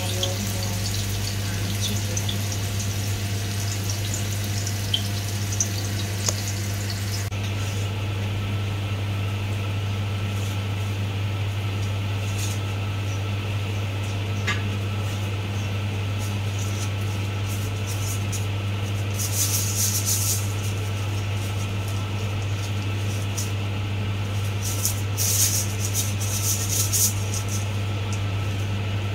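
A steady low hum throughout. For the first seven seconds food sizzles in a wok as it is stirred; after an abrupt change, water splashes in short bursts, twice, as boiled chicken pieces are handled in a bowl of water.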